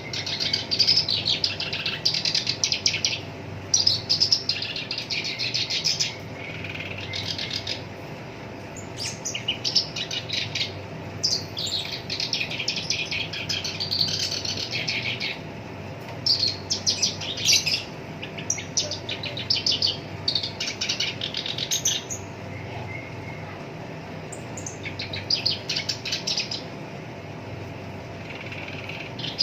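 Black-browed reed warbler singing: repeated bursts of fast, harsh chattering and rolling notes, each a second or a few long, with short pauses between them.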